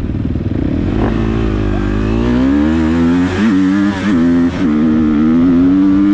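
Motocross bike engine revving hard, its pitch climbing over the first seconds, dropping briefly three times near the middle, then holding high and steady. A low rumble sits under it in the first part.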